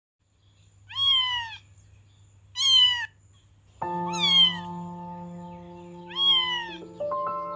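A cat meowing four times, each meow short and falling in pitch, with background music of held notes coming in about halfway through.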